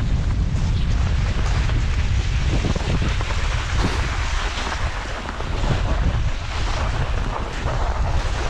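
Wind buffeting the microphone during a fast downhill run on cross-country skis, with the skis hissing and scraping on snow.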